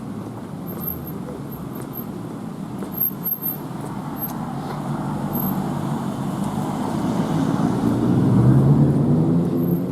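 Street traffic: a steady rumble of passing cars, with one motor vehicle's engine growing louder and passing close about eight seconds in.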